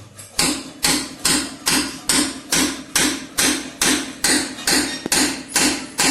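Steady hand hammering during tractor clutch work, a little over two blows a second, each blow sharp and ringing briefly.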